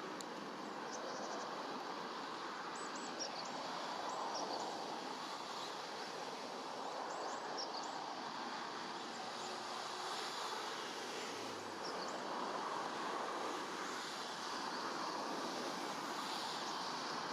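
Steady rush of river water, with short, high, falling bird calls at intervals through the first two-thirds.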